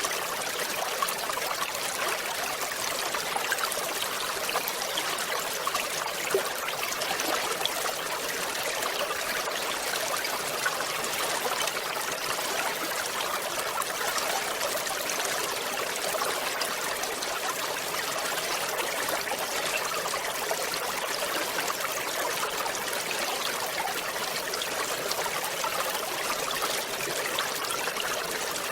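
Small river waterfall: water splashing and trickling steadily over rocks, an even rushing with little low rumble.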